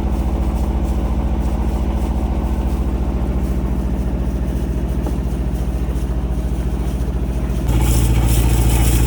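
A sailboat's inboard diesel engine running steadily with an even chugging rhythm. About eight seconds in, the sound steps up louder, with more hiss added.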